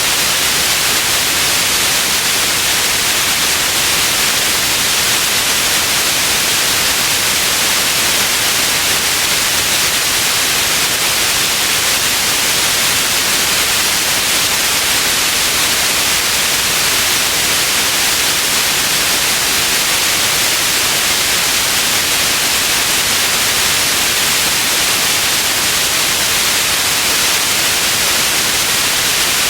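Continuous white noise: a steady, even hiss, brightest in the treble, that does not change.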